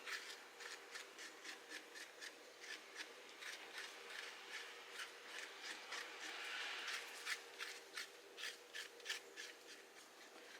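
A kitchen knife blade gently scraping the skin and grit off a wild pine mushroom (songi), in short, light strokes a couple of times a second, with one longer scrape about six or seven seconds in.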